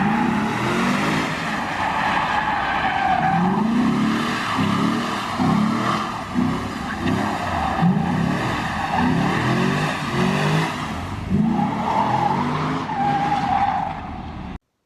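Drift car engine revving up again and again as it slides, with tires squealing and skidding. The sound cuts off suddenly near the end.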